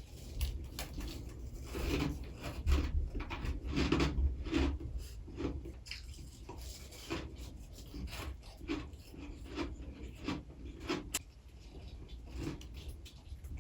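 Freezer frost bitten and chewed close to the microphone: a rapid, irregular run of short, crisp crunches with duller low thuds of the jaw beneath them.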